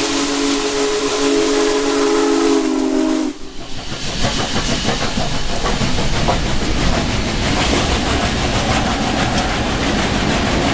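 Big Boy No. 4014 steam locomotive's chime whistle sounding one long chord over steam hiss, cutting off about three seconds in. The locomotive and its train then pass, with a heavy rumble and rapid clatter.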